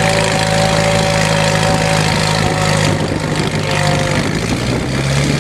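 1926 Fordson tractor's four-cylinder kerosene engine running steadily under load while pulling plows through heavy wet clay, with the growl of its worm-drive transmission. The higher tones fade about four seconds in, and the engine note shifts just before the end.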